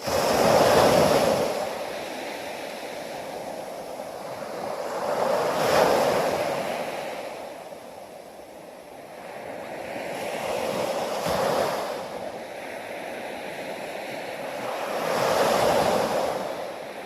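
Sea waves breaking and washing up the shore: four surges, each building to a peak and falling back, roughly every five seconds over a steady wash.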